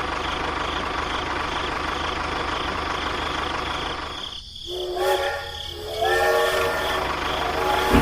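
A steady rumbling noise, then from about five seconds in a horn-like sound of several steady tones held together.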